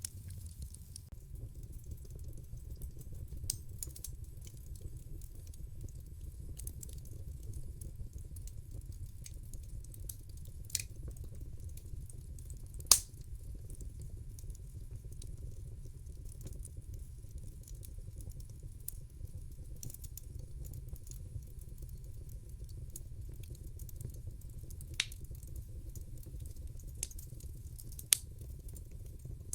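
Wood fire in a fireplace crackling: a steady low rumble of the burning with scattered sharp pops, a handful in all, the loudest a little before the middle.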